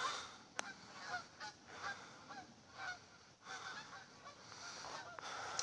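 A flock of migrating geese honking in flight: faint, short calls repeated about twice a second.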